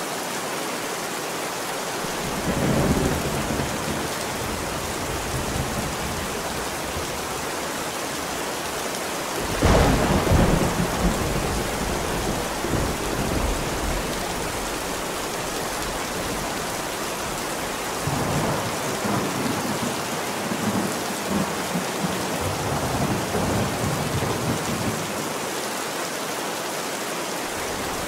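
Steady heavy rain hissing, with rolling thunder: a rumble about two seconds in, a louder, sharper clap near the ten-second mark that rolls on for several seconds, and further long rolls in the second half.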